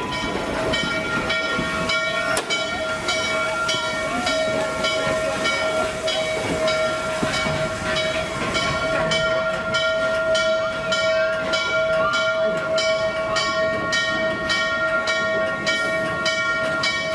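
Norfolk & Western 611's locomotive bell ringing steadily, about two strokes a second, over hissing steam as the 4-8-4 steam locomotive moves to couple onto its train.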